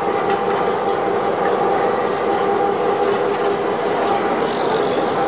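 Passenger carriages of a departing train rolling slowly past close by: a steady rumble of steel wheels on rail with a low hum, and light clicking as the wheels pass over the rail joints.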